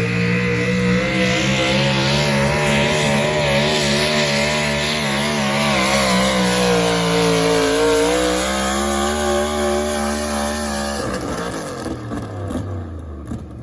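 Diesel pulling truck's engine running flat out under load, its note wavering and sagging in pitch before it drops away sharply about eleven seconds in.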